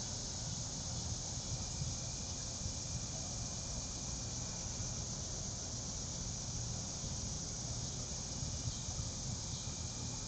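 Steady insect chorus of crickets trilling, heard as an even hiss with a faint thin trill that comes and goes.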